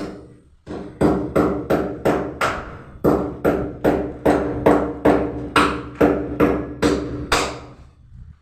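A steady run of about twenty sharp hammer blows, roughly three a second, each with a brief metallic ring; they start about a second in and stop shortly before the end.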